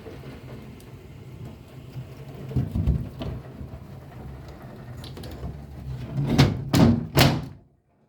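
Rain beating on window glass and a sill, a steady patter over a low hum, with a single thump a few seconds in. Near the end come three loud knocks in quick succession, and then the sound cuts off abruptly.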